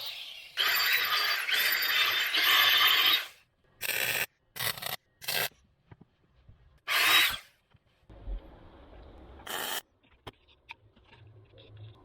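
Metalworking on the car body's thin sheet steel: a long stretch of hissing, rasping noise that stops and starts, then several short bursts.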